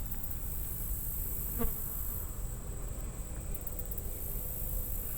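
Chorus of late-summer insects trilling steadily at a high pitch, with a short low-pitched sound about a second and a half in.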